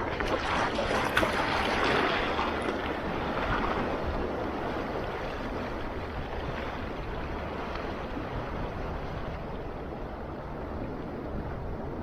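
Sea waves washing on the shore: a wave surges in and builds over the first couple of seconds, then falls back to a steady rush of surf.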